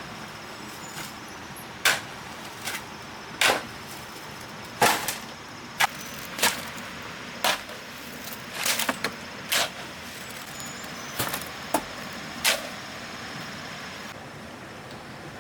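Hand tools scraping and knocking in a cement-and-sand mix: about a dozen short, sharp strokes at uneven intervals over a steady hiss.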